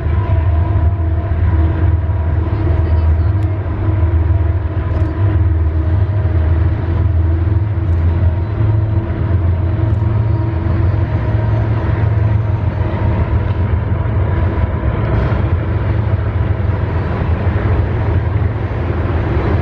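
Freight train running steadily: a loud, continuous low rumble with a few faint steady tones above it and occasional light clicks.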